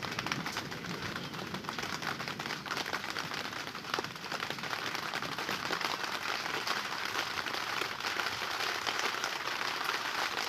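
Rain falling: a steady hiss dense with small drop hits, growing a little louder toward the end.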